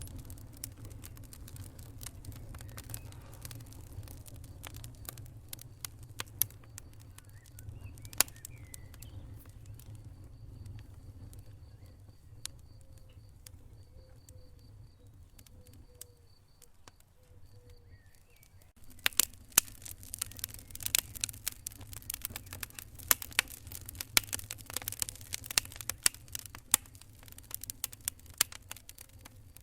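Wood fire crackling in a fireplace over a low steady rumble of the flames: scattered pops at first, turning into a dense run of sharp crackles about two-thirds of the way in.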